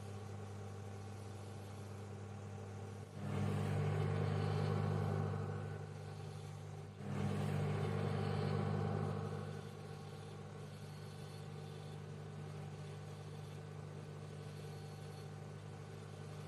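Microwave oven running with a steady electrical hum. Twice it suddenly grows louder, holds for a couple of seconds and eases back down.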